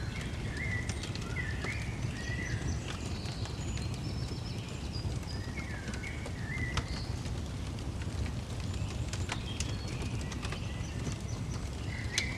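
Small birds chirping in short bursts of notes over a crackling fire, with scattered sharp pops and a steady low rumble underneath.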